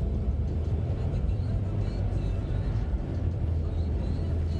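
Steady low rumble of a car driving, heard inside the cabin: road and engine noise.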